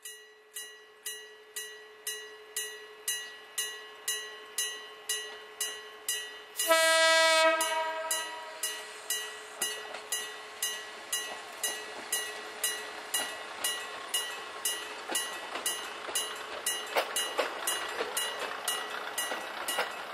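A level-crossing warning bell rings steadily at a little under two strikes a second. About a third of the way in, a diesel railcar horn gives one loud blast of just under a second. Near the end, the rumble of the two coupled prewar diesel railcars grows as they run past.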